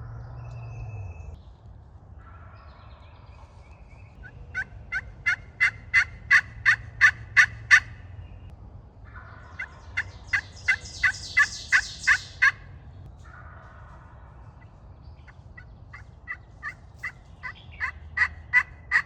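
Friction slate turkey call run in yelps imitating a hen: three runs of short, evenly spaced notes, about three a second, the first run growing louder.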